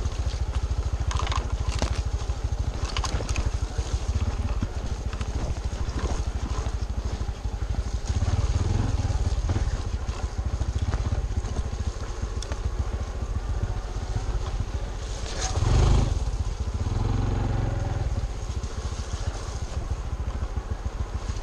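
Honda CT125's 125 cc single-cylinder four-stroke engine running steadily as the bike rides a rough trail, with scattered clicks and knocks early on and a brief louder surge about three-quarters of the way through.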